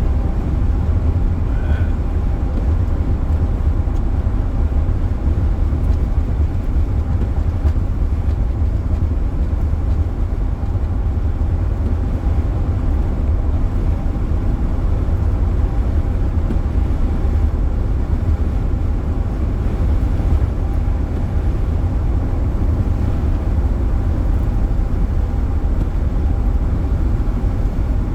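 Steady road noise inside a moving car's cabin: a deep, even rumble of tyres and engine at highway speed.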